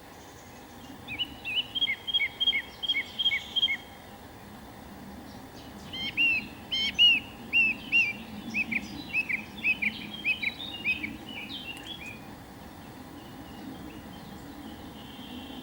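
A bird singing: two runs of quick, repeated chirping notes, one about a second in and a longer one in the middle, over a steady low background hiss.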